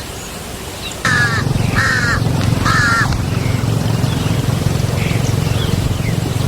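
A bird giving three short, harsh, caw-like calls in quick succession, over a steady low hum that starts about a second in.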